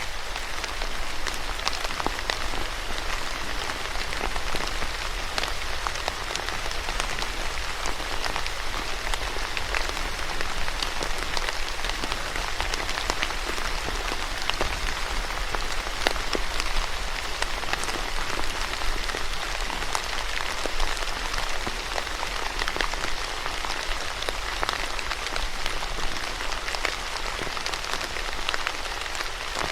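Steady rain falling on a surface, a constant hiss thick with many small drop ticks.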